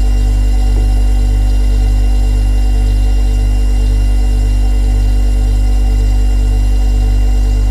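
Refrigerator compressor running with a steady, deep hum, a slight slow throb in it and faint steady higher tones above.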